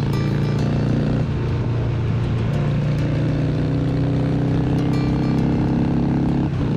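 Harley-Davidson Sportster 883's air-cooled V-twin running steadily under way on the road. Its note changes about a second in and briefly drops away near the end.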